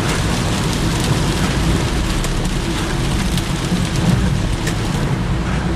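Steady hiss and low rumble of rain and road noise heard inside a moving car, with a few faint ticks of drops hitting the car.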